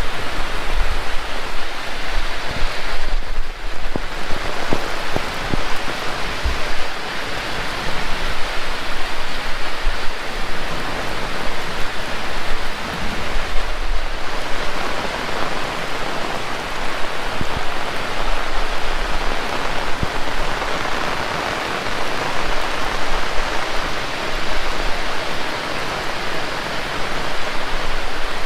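Heavy rain falling and pattering on surfaces, a loud steady downpour. There is a low irregular rumble underneath, typical of strong wind buffeting the microphone.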